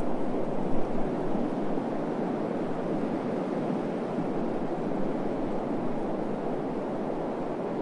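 Steady desert wind, a continuous rushing noise with no distinct events, briefly louder about a second in.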